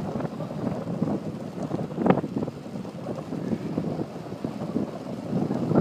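Wind buffeting the microphone of a camera riding along on a bicycle, over a rough rumble of the ride, with a brief louder bump about two seconds in and another at the end.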